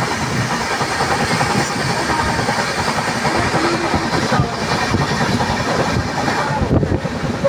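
Steady, loud running noise of a moving Indian Railways train heard through an open barred window, as another passenger train's coaches pass close alongside on the adjacent track.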